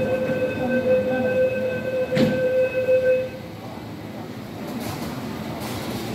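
Door-closing warning buzzer on an MTR East Rail Line R-train: a steady buzzing tone for about three seconds that stops suddenly, with a sharp knock about two seconds in as the doors shut. A quieter, steady train rumble follows.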